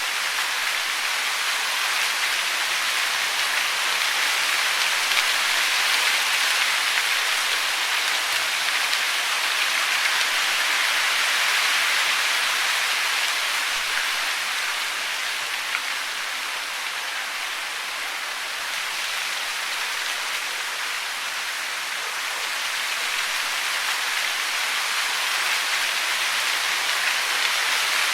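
Steady hiss of falling water, dense and even, swelling and easing slowly in loudness.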